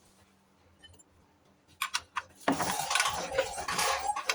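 Metal clinking and clattering: a few sharp clinks about two seconds in, then a dense run of continuous clatter, metal against metal.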